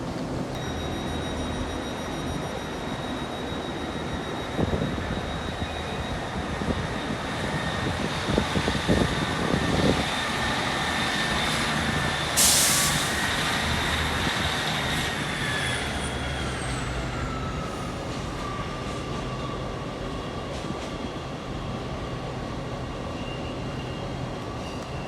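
A passenger train running into the station. Its wheels click over rail joints, air hisses sharply about halfway through, and a motor whine then falls in pitch as the train slows.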